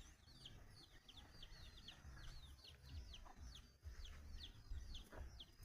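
Chicks peeping faintly and continuously: a quick string of short, high, falling peeps, about three or four a second.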